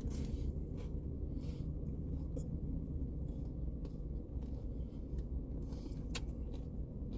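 Chewing a mouthful of crunchy fried chicken sandwich: scattered short crunches and mouth clicks, several seconds apart, over a steady low rumble.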